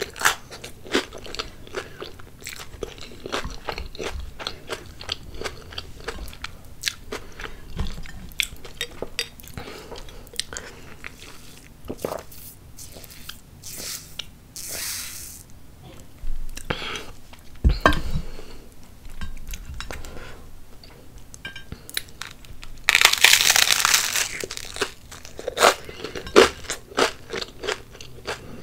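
Close-up crunching and chewing of avocado toast, the toasted bread crust crackling with each bite and chew. About halfway through there is a short sip through a straw, and a longer, louder hissing sound comes near the end.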